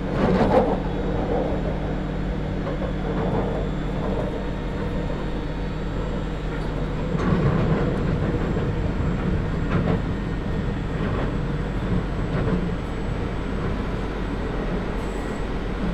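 London Underground 2009 Stock Tube train running through the tunnel, heard from inside the carriage: a steady hum of traction motors over wheel-on-rail rumble, with a few louder knocks about half a second in and again around the middle.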